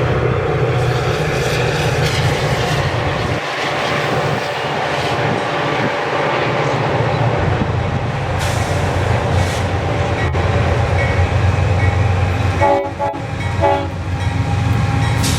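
A train passing close by: a loud, steady rumble of locomotive and wheels on the rails. A multi-note air horn sounds in the last few seconds.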